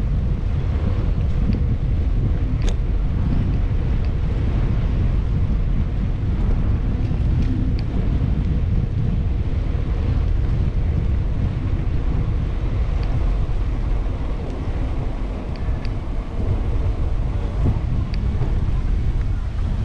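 Wind buffeting a bike-mounted action camera's microphone while cycling: a steady, loud low rumble, with a few faint clicks.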